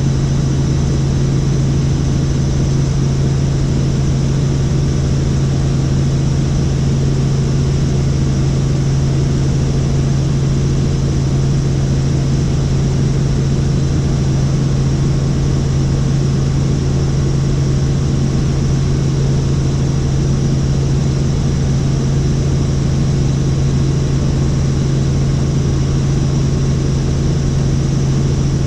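Helicopter in flight, its rotor and turbine making a loud, steady drone with a strong low hum.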